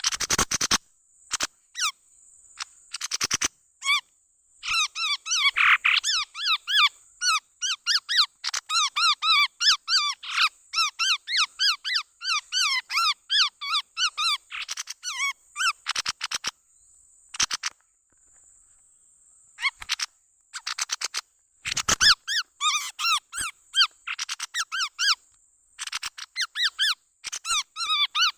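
Chestnut-rumped babbler calls played as a lure: fast runs of sharp, chirping notes repeated in bursts, with a break of a few seconds past the middle.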